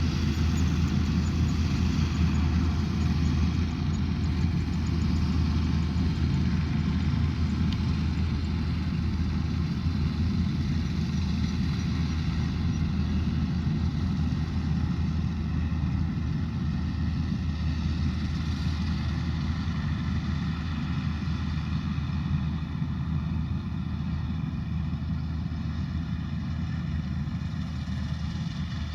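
Combine harvester engine running steadily with a deep low hum, getting slowly a little quieter.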